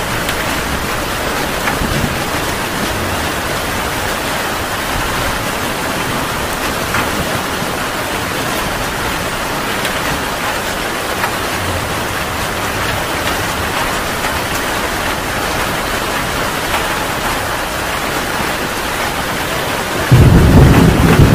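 Heavy rain falling steadily. Near the end, a loud, deep clap of thunder breaks in.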